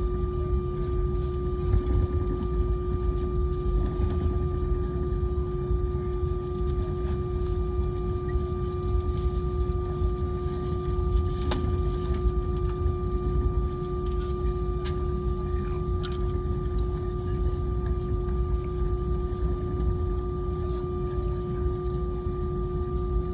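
Jet airliner cabin noise: a steady low rumble with a constant whine on top, unchanging in pitch, with a few faint ticks.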